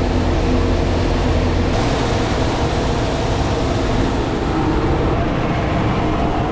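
Grain dryer running: a loud, steady machine drone with a low rumble and a constant hum.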